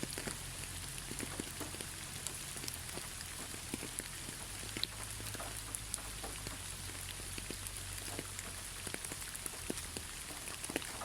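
Steady rain falling, with many separate drops ticking and pattering on a hard surface over an even hiss, and a low steady rumble underneath.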